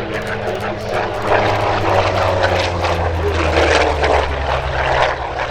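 Aircraft flying past in an airshow display, its engine drone falling slowly in pitch as it goes by.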